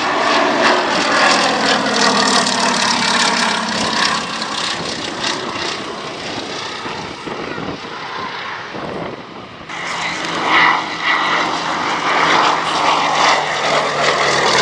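Propeller-driven aircraft flying past with its engine running loud, the pitch falling over the first few seconds as it passes. About ten seconds in the sound changes abruptly and an engine is heard again.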